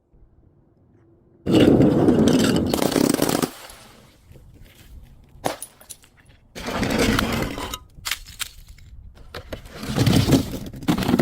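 Brittle objects breaking and crunching in three loud bursts, each lasting one to two seconds, with scattered cracks and crackles between them.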